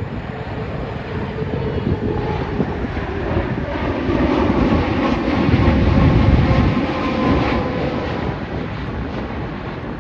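Aircraft engine noise from a passing plane: a steady rumble with a faint whine that swells to its loudest about four to seven seconds in, then eases off.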